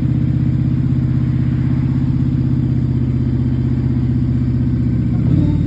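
Triumph Street Scrambler 900's parallel-twin engine idling steadily, with an even, regular exhaust pulse.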